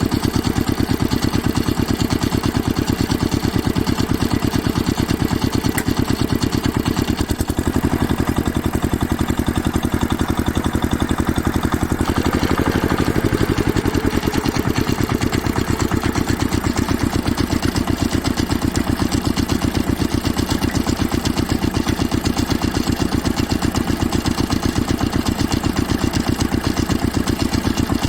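A small engine idling steadily with an even, rapid firing beat.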